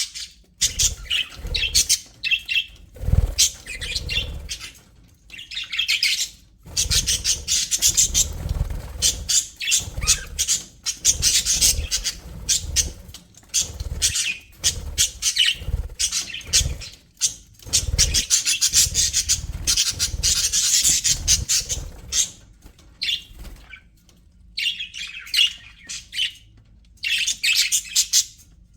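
A flock of budgerigars chattering and chirping, rapid high warbles and squawks overlapping almost without pause, with occasional low thuds underneath and two short lulls near the end.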